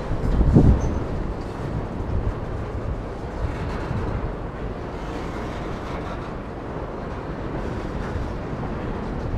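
Freight cars of a passing freight train rolling over the rails, a steady rumble of wheels, with a heavy low thump about half a second in.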